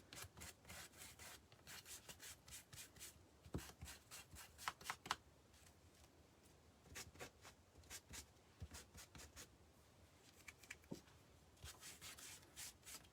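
Faint, irregular scratchy strokes of a paintbrush rubbing paint onto a wooden birdhouse, with a few light taps.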